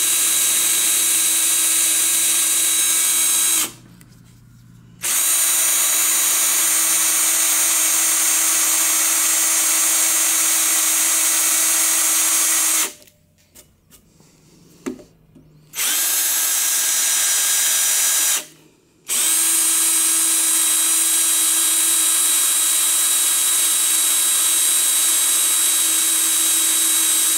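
Electric drill spinning a center drill into the face of a seized exhaust manifold stud: a steady whine that stops and starts again three times.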